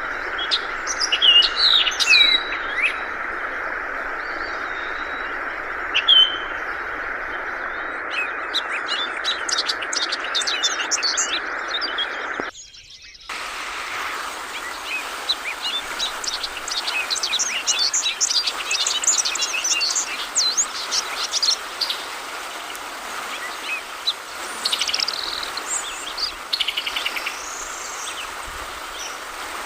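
Yellow-vented bulbul (trucukan) calling: short chirps and quick chattering trills over a steady rush of flowing water. The whole sound drops out briefly near the middle, then resumes.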